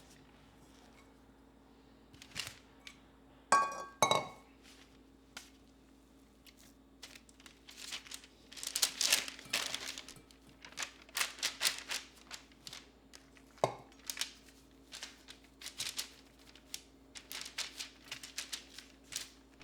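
Two ringing clinks of glass or crockery being set down, then a long run of crinkling and rustling from packaging being handled, over a faint steady hum.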